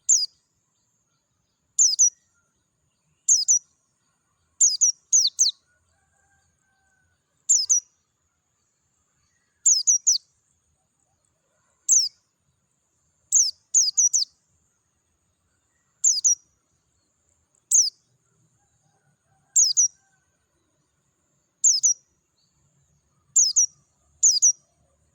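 Pleci (white-eye) calling: short, high chirps that fall in pitch, given singly or in quick pairs about every two seconds.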